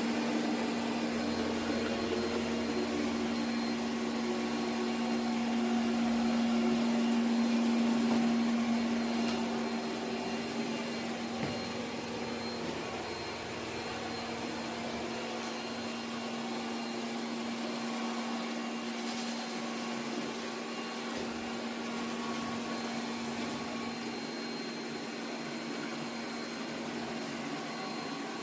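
ECOVACS Deebot T50 Omni robot vacuum cleaner running, a steady whirring motor hum with a constant low tone. It swells slightly a few seconds in and settles a little quieter about ten seconds in.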